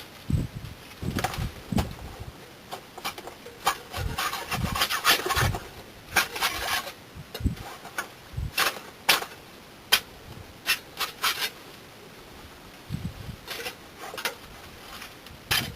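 Bricks of a wood-fired kiln's stacked door being taken down by hand. Irregular scraping and rubbing of brick on brick, with sharp clinks and knocks.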